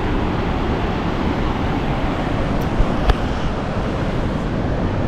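Upper Falls of the Yellowstone River: a steady rush of falling water, with a couple of brief knocks about three seconds in.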